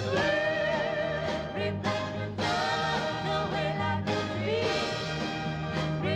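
Live band music in a swing style, with a melody line over the accompaniment.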